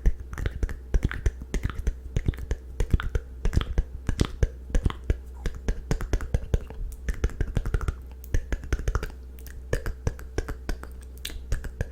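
ASMR mouth sounds close to the microphone: a dense, irregular run of wet tongue and lip clicks and pops, several a second, over a steady low hum.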